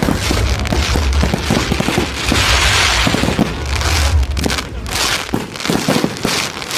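Fireworks going off: deep booms and rapid crackling, with a dense crackling burst from about two seconds in.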